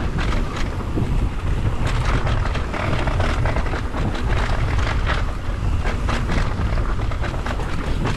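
Wind buffeting the microphone at riding speed, a steady low rumble, over a continuous run of clicks and rattles from the tyres and bike going over rutted dirt.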